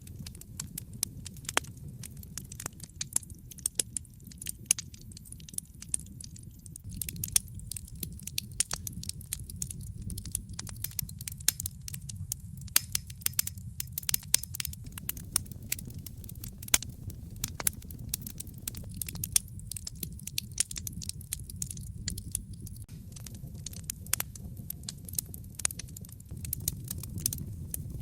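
Wood fire crackling in a fireplace: frequent sharp pops and snaps, several a second and some louder than the rest, over a steady low rumble.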